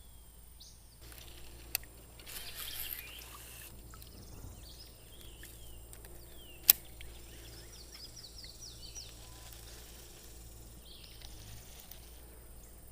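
Birds chirping and calling in short, repeated notes. A brief hiss comes about two seconds in, and there are two sharp clicks, the louder one about seven seconds in.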